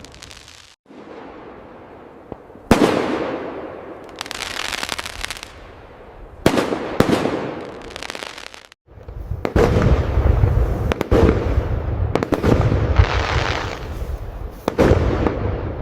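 Aerial fireworks bursting: a sharp bang about three seconds in and another near six and a half seconds, each trailing off in crackle, then a dense barrage of bursts with a deep rumble from about nine seconds on.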